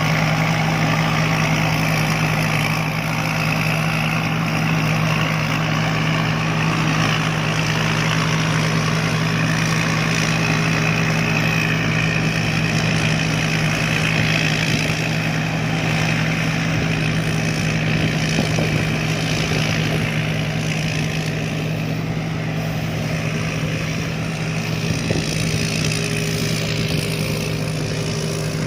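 Combine harvester engine running steadily at an even pitch, a constant hum with mechanical noise over it.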